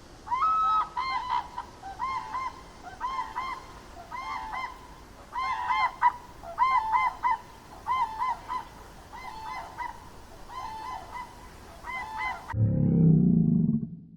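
A bird honking over and over in short runs of two or three nasal calls. Near the end a loud, low rumbling sound takes over.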